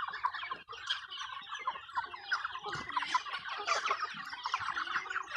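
A flock of chickens clucking and chirping all at once, a dense chatter of many short overlapping calls, as they crowd in to be fed treats.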